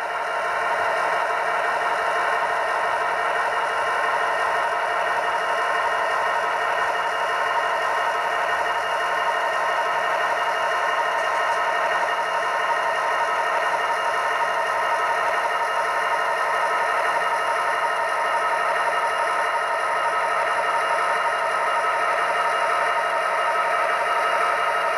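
Diesel prime-mover sound from the HO-scale SD90MAC locomotive's Tsunami 2 sound decoder, played through its small onboard speaker. It runs steadily at a low throttle setting while the model creeps along at speed step 1.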